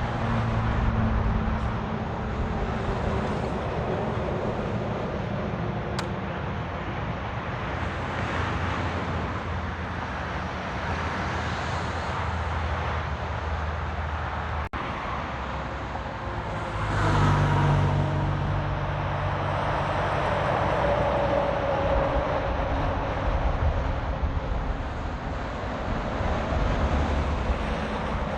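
Road traffic passing continuously, vehicles driving by with tyre noise and engine drone. One louder vehicle with a clear engine note goes past about two-thirds of the way in.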